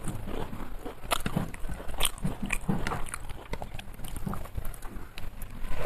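A person chewing food close to the microphone, with wet mouth sounds and irregular sharp clicks.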